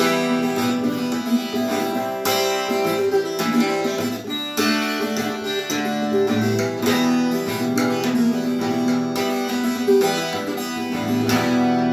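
Acoustic guitar strumming the closing chords of a song, the last chord left ringing at the end.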